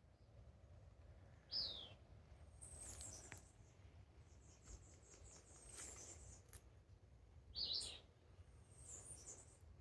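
Birds calling faintly: two louder falling chirps, one about a second and a half in and one near the end, over fainter high trills and rapid series of short notes.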